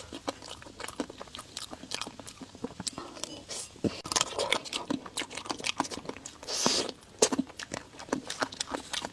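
Close-miked chewing and biting of desserts: many quick wet mouth clicks and smacks, with a couple of longer slurping or sucking sounds about four and six and a half seconds in.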